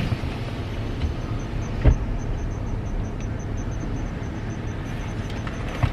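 Idling car engine heard from inside the cabin, a steady low rumble, with a sharp thump about two seconds in and a click near the end.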